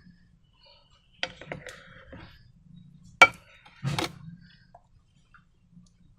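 Hand-handling sounds of slime-making materials: a few clicks and taps, a sharp loud snap about three seconds in, then a short rustling scrape just after.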